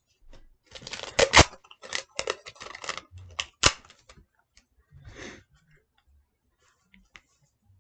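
Paper and sticky tape being handled and crumpled, giving a quick run of crackles and snaps over the first few seconds, then a short rustle and a few faint clicks.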